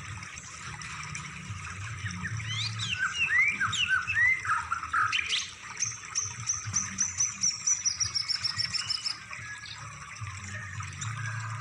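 Songbird song from a masteran recording: varied whistled notes and chirps, then about three seconds in a fast trill of high repeated notes slowly falling in pitch, over a low steady hum.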